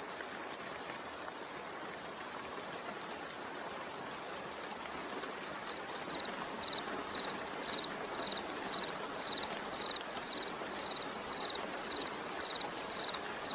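Steady rain. About six seconds in, a high chirping joins it and repeats evenly, about twice a second.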